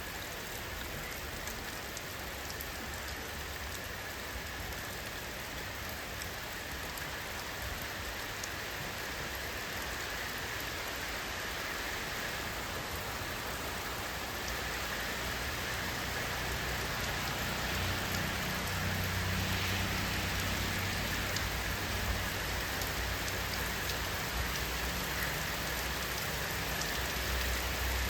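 Steady rain falling on a surface, with scattered single drops ticking through it. A low rumble builds under the rain in the second half.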